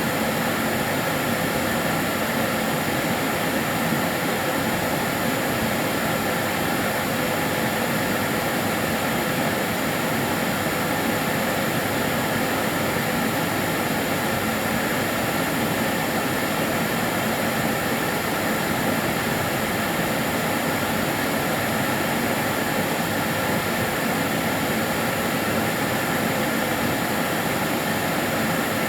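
Karcher DS 6 Premium water-filter vacuum cleaner running steadily, a continuous even rush of air and motor noise with a faint high whine.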